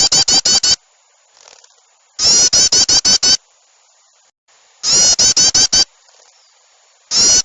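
Looped bird-lure recording of small birds in agitated chattering: a loud burst of six or seven rapid, falling notes about every two and a half seconds, with fainter short bird calls between the bursts. This is the noisy 'ribut' calling played to draw small birds in.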